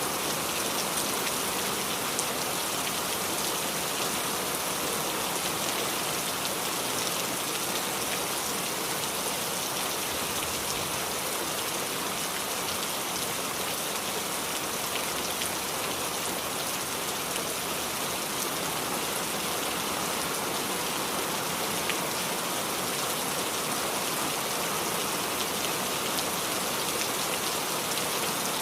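Steady rain falling on the leaves of a small tree, an even hiss sprinkled with small drip and patter ticks.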